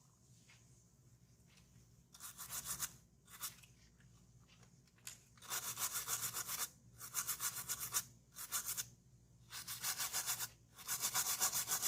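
A brush scrubbing a water-damaged laptop circuit board wet with petrol. It goes in several bursts of quick back-and-forth strokes with short pauses, starting about two seconds in, to clean off the residue left by the water damage.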